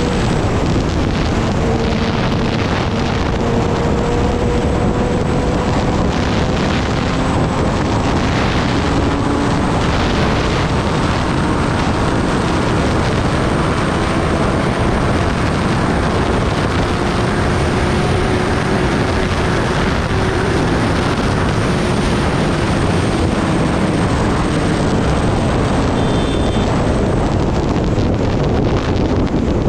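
Kawasaki Ninja ZX-10R's inline-four engine running under way, its pitch drifting slowly up and down, almost buried under loud, steady wind rush on the microphone.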